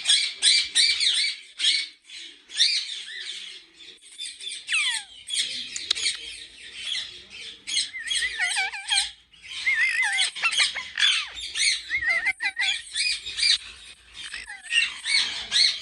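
A flock of ringneck parakeets squawking at once, a constant overlapping din of shrill screeches, some calls sweeping sharply down in pitch.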